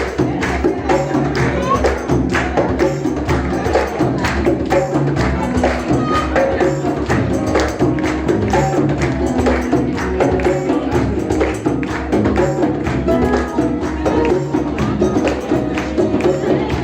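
Live band music with fast, steady percussion strokes over a repeating bass line, played continuously.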